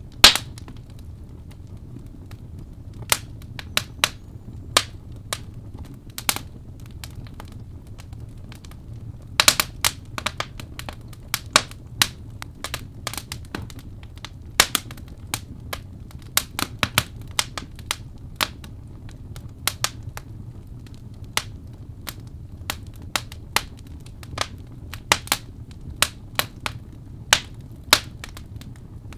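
Wood fire crackling: irregular sharp pops and snaps, with a quick cluster of them about nine seconds in, over a steady low rumble.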